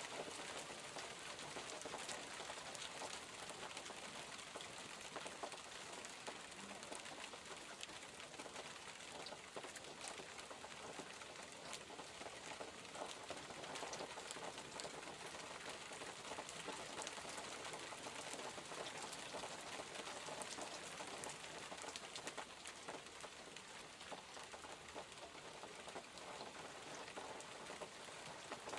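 Steady rain falling, with many separate drops pattering on surfaces throughout.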